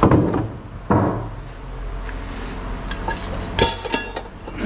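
Pieces of scrap metal being tossed onto piles while being sorted: two heavy clunks, one at the start and one about a second in, then a run of lighter metallic clinks with brief ringing near the end.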